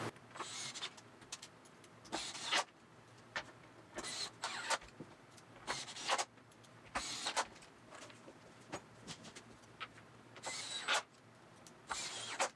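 Metal bolts being handled and set into pre-drilled holes in a wooden tabletop: irregular clicks, clinks and short scrapes, some a few seconds apart and some in quick runs.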